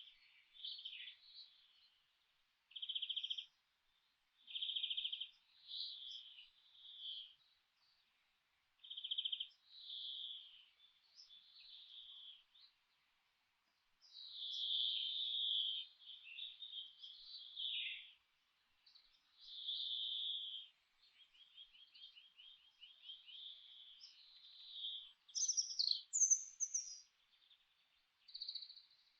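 Songbirds singing in a forest: short phrases repeated every second or two with pauses between, a quick rattling trill in the middle, and higher, thinner notes near the end.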